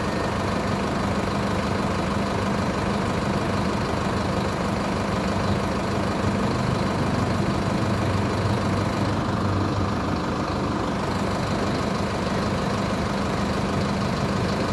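Mercedes-Benz OF-1722 bus's diesel engine idling steadily while the bus stands parked.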